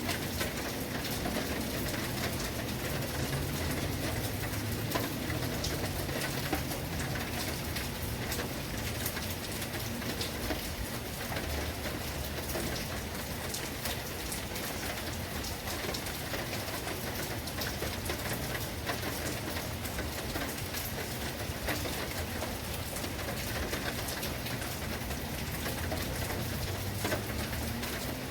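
Steady heavy rain falling and splashing on surfaces, an even hiss that holds its level throughout.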